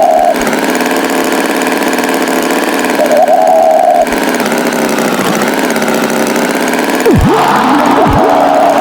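Cartoon tractor engine sound effect running steadily. A short higher-pitched tone comes twice, and quick swooping pitch glides come near the end.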